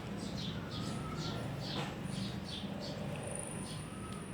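Puppies squeaking and whimpering: a quick run of short, high-pitched squeaks, each sliding down in pitch, a few every second.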